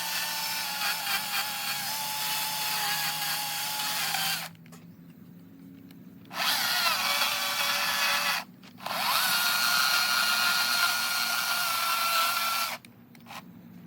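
Power tool carving eastern red cedar, run in bursts with a steady whine: it runs for about four and a half seconds, stops, starts again after a couple of seconds with a brief break, then stops near the end with a couple of short blips.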